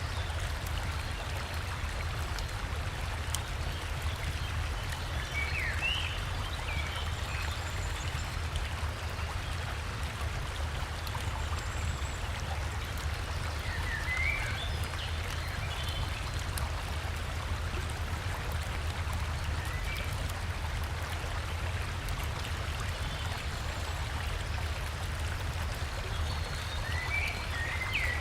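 River water flowing steadily with a low rumble. Short bird chirps come three times, several seconds apart.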